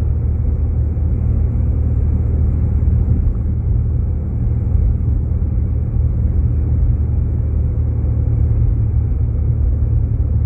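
Steady low rumble of engine and tyre noise inside a Jeep Grand Cherokee's cabin as it drives along a snow-covered road.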